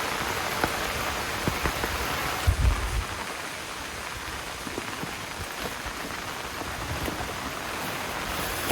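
Heavy rain falling steadily, with scattered louder drops striking close by. A brief low rumble comes a few seconds in, and the rain is a little quieter after it.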